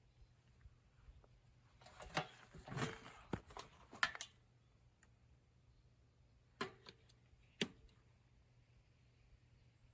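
A few scattered sharp clicks and knocks: a cluster about two to four seconds in, then two single knocks later on, over a faint low hum.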